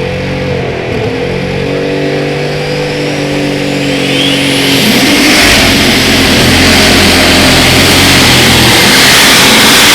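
Turbocharged pulling tractor engine coming up to full throttle. A high whine climbs in pitch over about two seconds, then from about five seconds in the engine runs flat out and loud.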